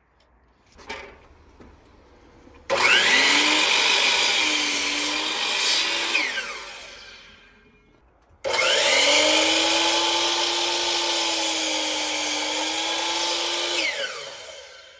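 Electric power saw cutting lumber twice. Each time the motor starts suddenly with a rising whine, runs through the cut for several seconds, then winds down with a falling whine. The second cut starts a little past halfway.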